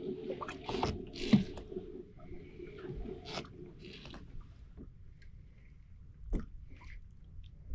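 Close handling noises: irregular knocks and short crinkly rustles, busiest in the first half, then a few scattered light clicks and taps.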